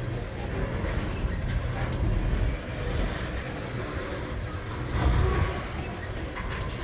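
Freight train cars rolling past on the rails, a steady low rumble of wheels on track that swells briefly about five seconds in.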